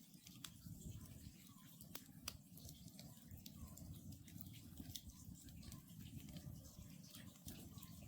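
Wood campfire burning with scattered sharp crackles and pops over a low steady rumble. An Oriental scops owl calls faintly, a short hooting note about once a second.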